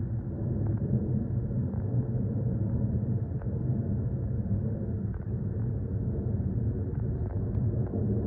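Steady low rumble of aircraft engines, with a few faint clicks over it.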